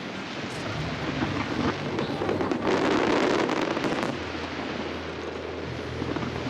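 Aerial fireworks going off: a dense run of crackling bursts, with a louder rumbling swell about two and a half seconds in. A steady low hum sits underneath in the second half.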